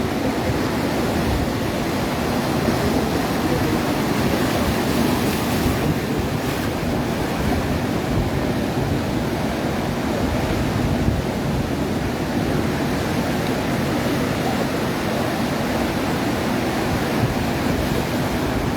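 Atlantic surf washing steadily onto the beach, mixed with wind on the microphone.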